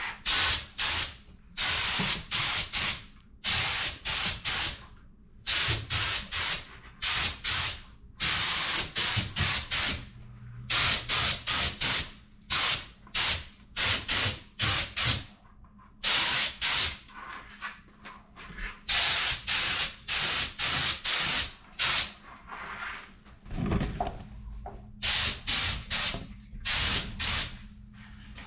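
Paint sprayer hissing in many short bursts, each a fraction of a second to about a second long, with brief pauses between them. A faint steady low hum runs underneath.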